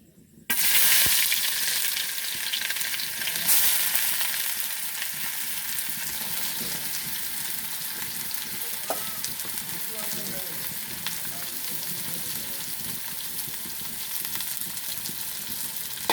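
Sliced onions hitting hot oil in a pan: a loud sizzle starts suddenly, surges again about three seconds later, then settles into steady frying.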